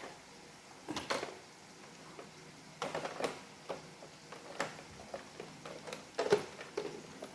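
Irregular light clicks and knocks of plastic parts of an iRobot Roomba robot vacuum being handled and fitted together by hand.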